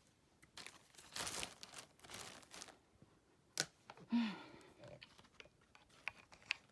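Brief crinkling, crunching rustles of handling, with a sharp click midway and a few light ticks near the end; no vacuum running. A short voice sound comes a little after the click.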